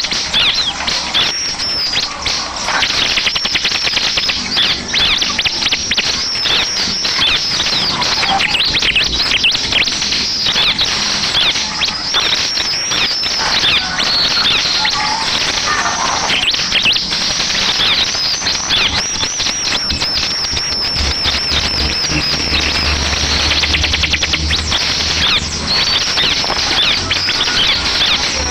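Bar-winged prinia (ciblek) song used as a lure recording: a loud, unbroken, rapid chatter of quick high sweeping notes.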